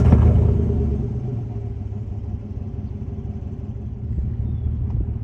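Chevy Silverado Trail Boss V8 firing up on its stock exhaust. It flares loudest as it catches, then settles within about a second into a steady, low idle rumble.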